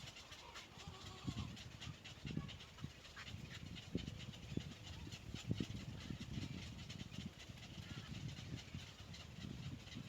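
Birds shifting about in a nest: irregular soft thumps and rustling, with faint high ticking.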